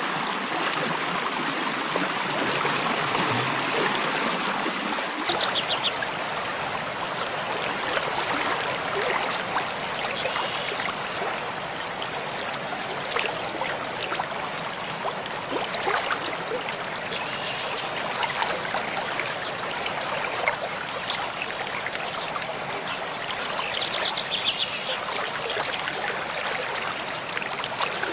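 Mountain stream flowing steadily over rocks, a continuous rushing and trickling of water. Twice, about five seconds in and again near the end, a bird gives a short high trill above the water.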